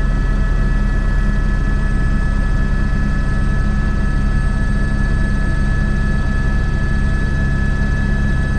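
Airbus H125 helicopter in flight: the steady, unbroken drone of its rotor and single turboshaft engine, with a constant high turbine whine over a low rumble.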